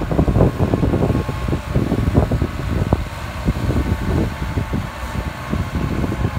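Tractor diesel engine running steadily, with a faint steady whine above it, while wind buffets the microphone in irregular gusts.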